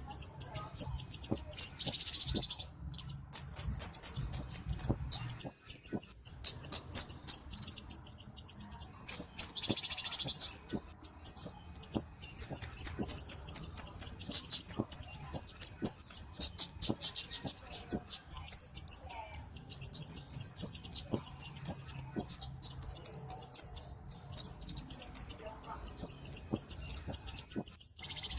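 Kemade (cabe-cabean) flowerpecker singing: long runs of rapid, high, thin ticking notes, several a second, with brief pauses between runs.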